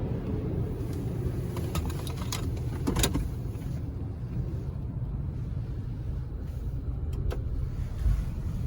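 Car engine running with a steady low rumble, with a few sharp clicks about two to three seconds in and again near the end.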